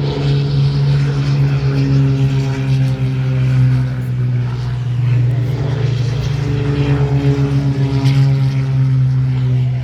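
Propeller aircraft engine droning loudly and steadily, its higher tones shifting in pitch as the aircraft moves.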